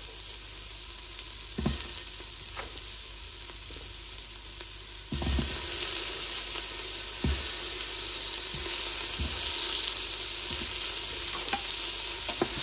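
Red onion frying in olive oil in an Instant Pot on sauté, a steady sizzle, as sliced tomatoes are dropped in by hand with a few soft knocks. The sizzle grows louder about five seconds in.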